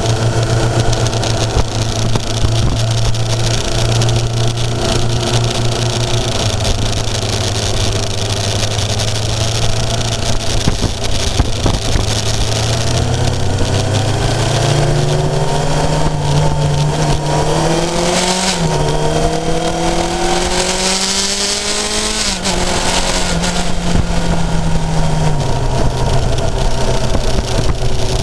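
Onboard sound of a Kawasaki inline-four motorcycle engine cruising at steady revs, with wind rushing over the microphone. About halfway through, the revs climb, drop sharply at an upshift, climb again, then settle back into a steady cruise.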